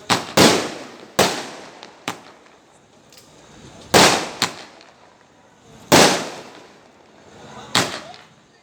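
Firecrackers going off one after another: about eight sharp bangs at irregular intervals, each with a short trailing echo.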